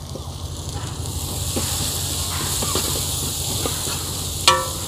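Onions frying in hot oil in a large metal pot: a steady sizzling hiss that swells about a second in, with faint clicks of stirring. A brief high call sounds near the end.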